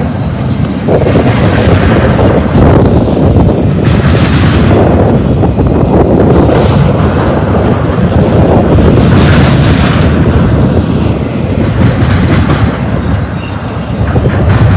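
BNSF double-stack intermodal freight train passing close by: the steel wheels of the well cars rumble and clatter over the rails. A high, steady wheel squeal sounds from about half a second to nearly four seconds in, with a brief higher squeal around eight and a half seconds.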